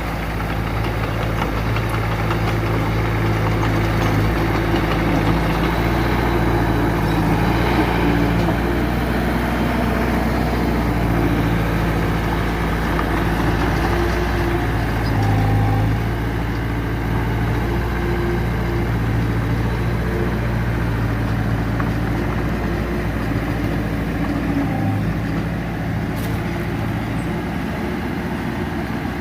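Diesel engine of earth-moving machinery running steadily, a little louder through the first half and settling slightly after the middle.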